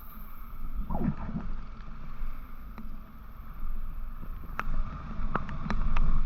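Motorcycle riding noise: wind rushing over the microphone over the engine and road rumble, with a brief falling tone about a second in and a few sharp ticks in the second half.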